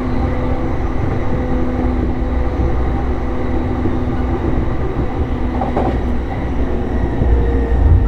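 Running noise of an E233 series electric multiple unit heard from inside the car while it travels between stations: a steady low rumble of wheels on rail under a few faint steady motor tones.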